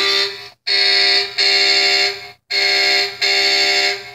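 Electronic sound effect from a 2015 Hess toy fire truck's speaker: a loud, steady, buzzy tone repeated in bursts of under a second each, cutting off abruptly near the end.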